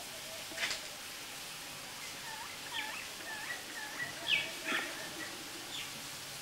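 Birds calling in a series of short, twisting chirps, over a faint steady hiss.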